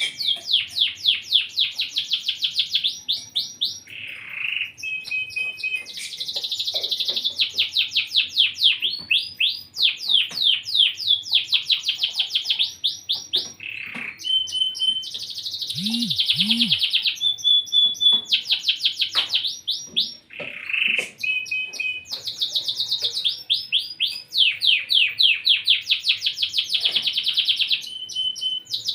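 Domestic canary in full song, singing almost without pause in long runs of rapid trills and rolls, each run a fast string of repeated high notes, with short breaks between phrases.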